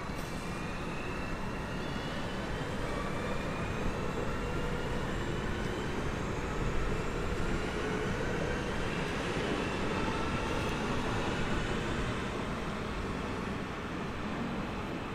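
A train running through the station, a steady rumble with several faint whines slowly rising in pitch, as a train accelerating gives.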